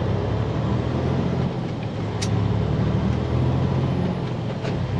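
Diesel engine of a day-cab semi truck running under way, heard from inside the cab, easing off briefly twice. A single sharp click about two seconds in.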